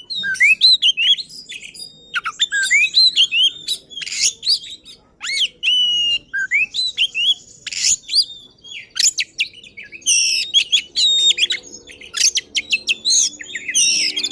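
Oriental magpie-robin (kacer) singing hard and fast: a rapid stream of varied whistled notes and sweeping phrases mixed with harsh, rasping bursts, typical of an excited bird showing off its repertoire of learned phrases.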